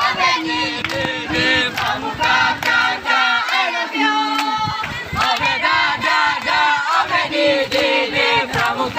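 A large group of scouts singing and shouting a chant together, many voices overlapping.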